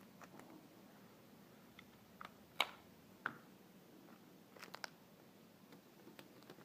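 A folded sheet of paper being handled: scattered light crinkles and clicks, the sharpest about two and a half seconds in and a small cluster near the end.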